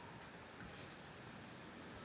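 Faint, steady wind ambience: an even hiss with a thin, high steady tone over it.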